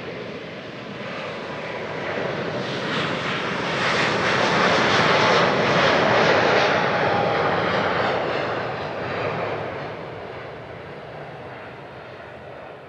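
Jet airliner's engines passing, swelling to loudest around the middle and then fading away.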